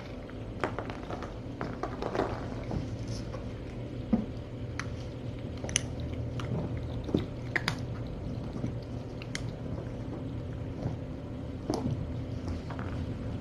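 Kittens chewing dry kibble: irregular small crunches and clicks, over a steady low hum.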